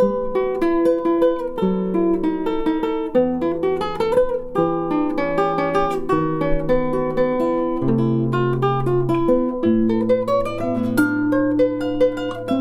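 Solo guitar playing a composed piece: plucked melody notes over sustained bass notes that change every second or two.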